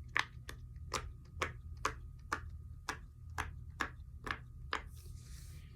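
Silicone pop-it fidget toy being pressed bubble by bubble on its good side: a steady run of crisp pops, about two a second, stopping about five seconds in.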